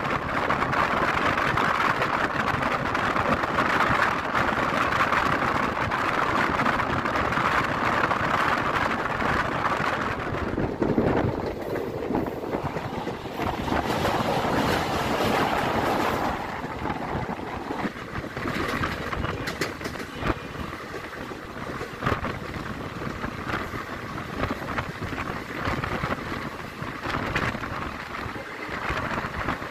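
Moving passenger train heard from an open coach doorway: a steady rush of wind and wheels on rail. Around the middle the sound deepens into a rumble as the train crosses a steel truss bridge, then it eases into quieter running with separate clicks of the wheels.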